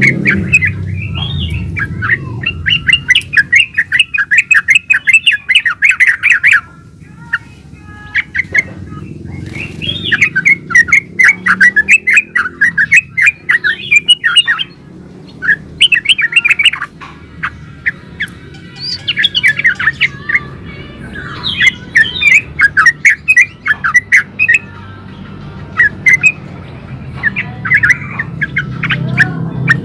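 Yellow-vented bulbul singing vigorously in long runs of rapid, chattering notes. The runs last several seconds each, with short pauses between them, over a low steady background rumble.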